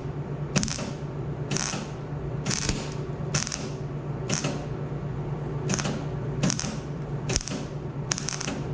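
A welder tacking thin-wall steel exhaust pipe: short bursts of arc crackle, each a fraction of a second, about once a second, over a steady low hum.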